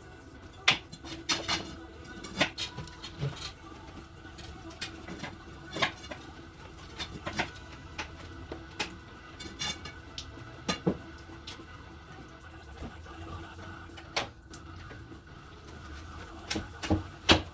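Metal tools and parts clinking and knocking at irregular intervals, over a faint steady hum.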